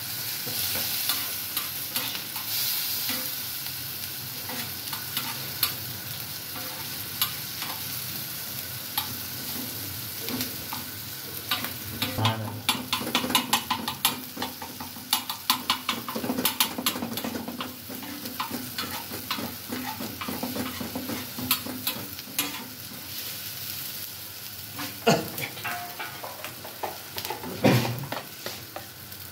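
Diced tomatoes, peppers, green chillies and onion sizzling on a flat black griddle (tawa) while a knife blade scrapes and taps them against the plate. A run of quick tapping comes about halfway through, and two louder knocks near the end.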